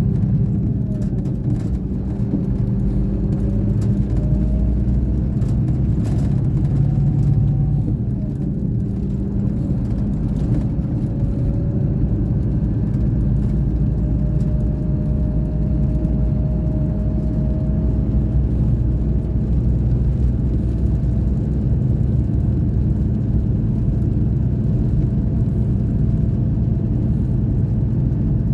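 Scania K420 bus's diesel engine running steadily under way, a continuous low drone with a faint whine that rises slowly in pitch around the middle.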